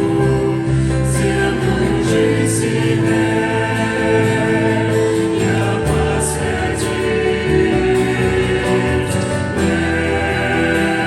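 A Christian song: voices singing lyrics with long held notes over a sustained instrumental accompaniment.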